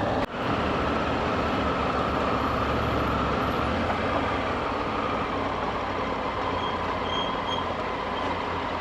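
Motorcycle engine running steadily while riding, heard with a constant rush of wind and road noise.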